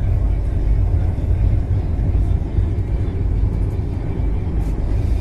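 Steady low rumble of a train, with no distinct knocks or rhythm.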